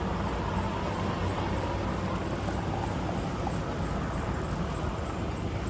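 Steady engine and road noise of a semi-truck heard from inside the cab while driving, an even low rumble without letup.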